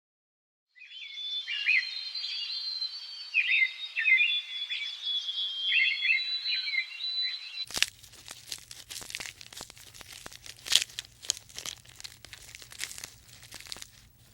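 A small bird chirping and twittering in quick, high, gliding notes. About eight seconds in, this gives way to a dense run of sharp crackling and rustling clicks over a low hum.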